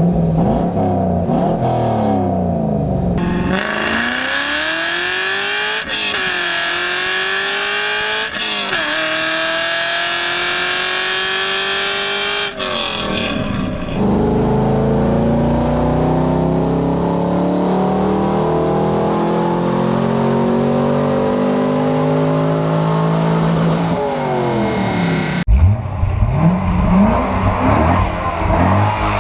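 Corvette Z06 V8 engines in a run of separate clips, accelerating hard and revving. The engine note climbs in pitch and drops back at each upshift, twice in quick succession early on, then a long, slower climb under load.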